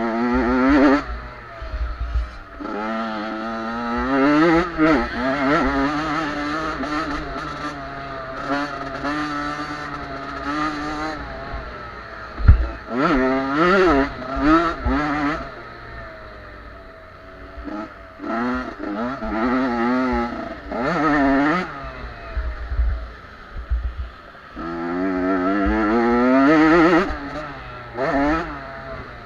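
Small 50–85cc youth motocross bikes racing past, their two-stroke engines revving up and falling back again and again as several bikes go by in turn. A single sharp knock is heard about twelve seconds in.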